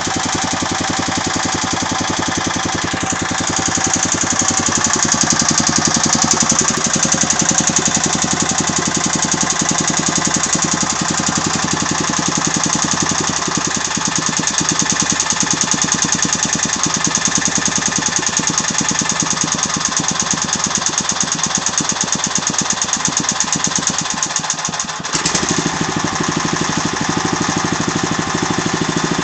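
Agros walk-behind tractor's petrol engine running with a steady, rapid knocking in time with the engine. The revs rise a few seconds in, and the running dips briefly near the end before settling again. The knock is a fault whose cause the owner does not know.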